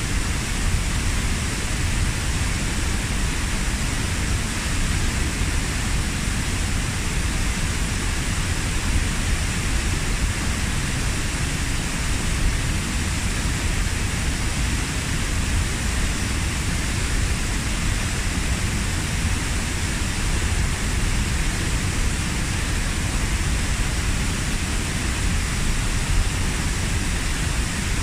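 Waterfall about 15 m high pouring steadily into its pool: an even, unbroken rush of falling water, deep at the bottom and hissing higher up.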